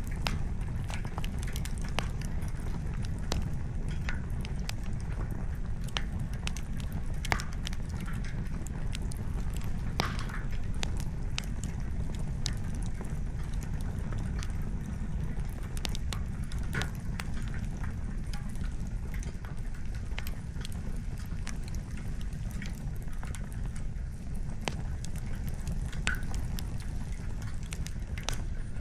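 Wood campfire crackling, with irregular sharp pops and snaps of burning logs, the clearest a few seconds apart, over a steady low rumble.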